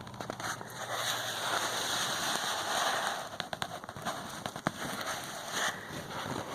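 Tree branches and leaves snapping and crackling, with a rushing swish about a second in and many sharp snaps of breaking twigs and limbs.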